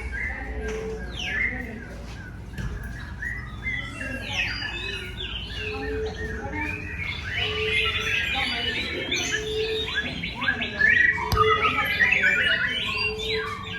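Many birds chirping, whistling and calling over one another, busiest in the second half, with a short low note repeating about once a second.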